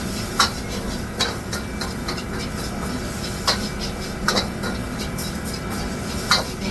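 Kitchen utensils clinking against pots and dishes: about five sharp clinks spread unevenly, over a steady background hum.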